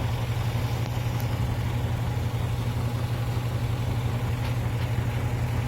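A steady, low mechanical hum like an idling engine, level throughout.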